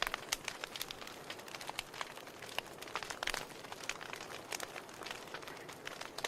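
Wood fire crackling in a fireplace: logs popping and snapping at irregular intervals over a soft steady hiss of flame.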